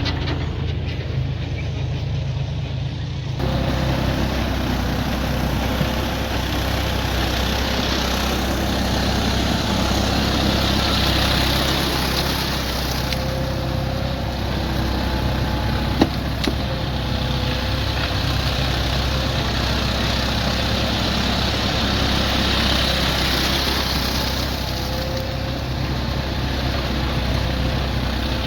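Swaraj 744 XT tractor's three-cylinder diesel engine running steadily under load while it drives a rotavator through wet paddy mud. The sound changes abruptly a few seconds in, and there is a single sharp knock about halfway through.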